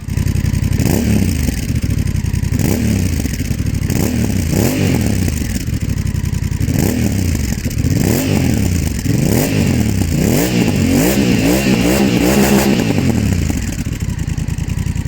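Honda CMX1100 Rebel's parallel-twin engine through a GPR aftermarket exhaust, revved in repeated throttle blips. The pitch rises and falls with each blip, and the blips come quicker in the second half.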